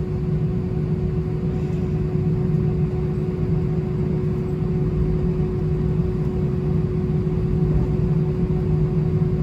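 Steady low rumble and hum inside an Airbus A319 cabin on the ground after landing, with the engines at idle.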